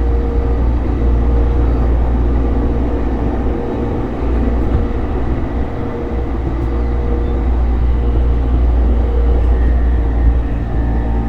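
Running noise heard inside a JR East E233-series electric train under way: a steady low rumble of wheels on the rails with a few steady tones from the running gear over it.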